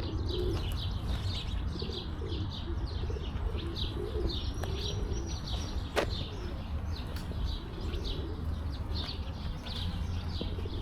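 Small birds chirping over and over, with pigeons cooing in low, wavering calls beneath them. One sharp click comes about six seconds in, over a steady low rumble.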